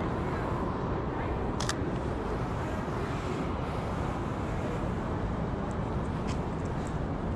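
Steady city street traffic noise, with a single sharp camera shutter click about a second and a half in.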